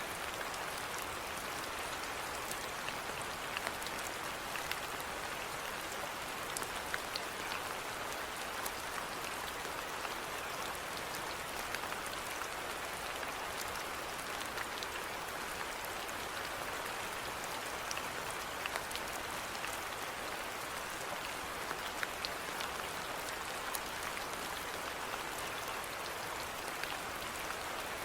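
Steady rainfall: an even hiss dotted with many small, sharp drop ticks.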